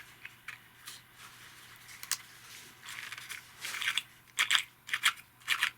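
Thin card and paper being handled, giving short crisp crunches and clicks, scattered at first and coming thicker in the second half.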